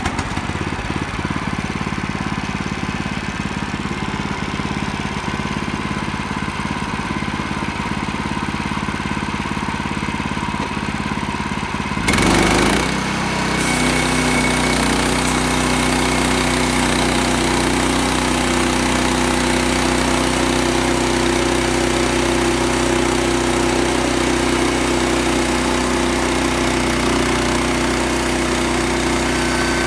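Sawmill's small gasoline engine running at a low steady speed; about twelve seconds in it speeds up with a brief louder surge, then runs on steadily at a higher pitch.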